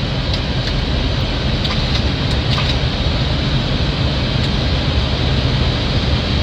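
Steady rushing airflow and engine noise inside an Airbus airliner's cockpit on short final approach, just below decision height. A few faint ticks are heard in the first few seconds.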